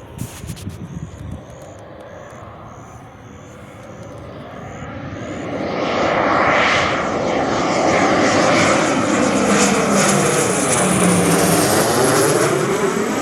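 Military aircraft flying low past the airfield boundary. Its engine noise builds over a few seconds as it approaches, then stays loud as it passes, with a high whine that falls slowly in pitch.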